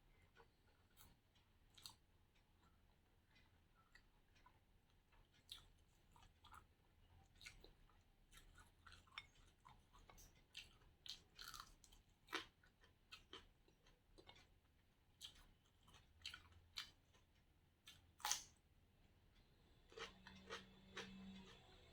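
Close-miked chewing of a mouthful of food eaten by hand: irregular wet mouth clicks, smacks and crunchy bites, with one louder crunch late on.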